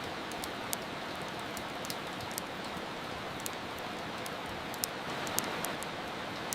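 Steady hiss of soft rain, with the irregular sharp crackle and pops of a fireplace fire over it.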